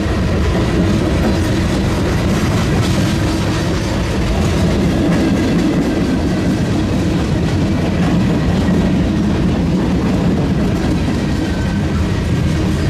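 BNSF mixed freight train's cars rolling past on steel wheels and rail, a steady, unbroken train noise with a clickety-clack over the track.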